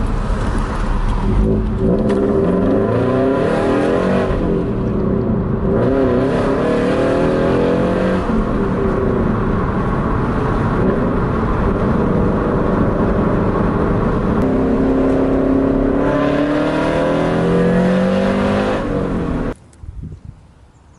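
Subaru BRZ's FA20 flat-four engine and aftermarket exhaust running on an updated OFT Stage 2+ tune, its pitch rising and falling as it revs. The sound cuts off suddenly near the end.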